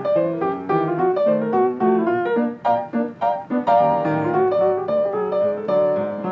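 Background piano music: a light melody of quick, evenly played notes over chords.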